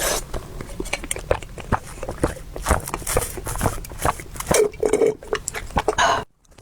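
Close-miked mukbang eating: food chewed and slurped with many quick, irregular wet smacks and clicks. The sound cuts out abruptly near the end.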